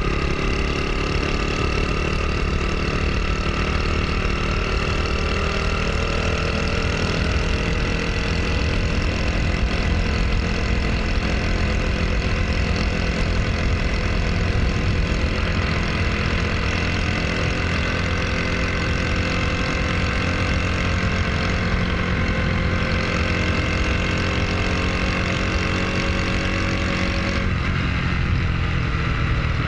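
Honda Super Cub's single-cylinder four-stroke engine running steadily, its pitch drifting slightly.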